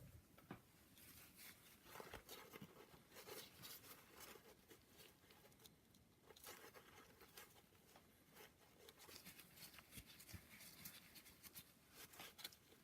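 Near silence with faint, scattered light clicks and rustles of small engine parts being handled.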